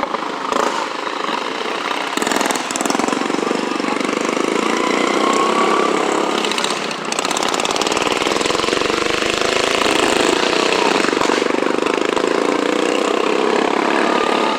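Tractor engine running steadily, its pitch rising and falling slightly now and then.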